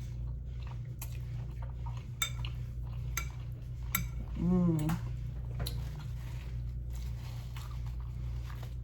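Eating utensils clicking against takeout food containers during a meal: a handful of light, separate clicks. A short voiced sound comes about halfway through.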